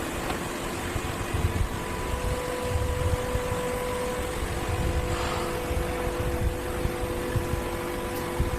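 Steady running of CNC machining-cell machinery: a low rumble with a steady whine on several fixed pitches, and a short hiss about five seconds in.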